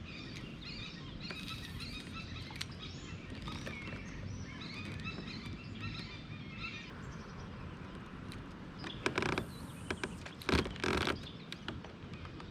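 Small birds chirping and singing over a low outdoor rumble, then, about nine to eleven seconds in, a few loud short rattling knocks of gear being handled.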